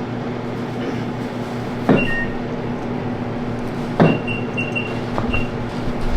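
Two sharp knocks, each followed by short high electronic beeps: one or two after the first, a quick run of about five after the second. A steady electrical hum runs underneath.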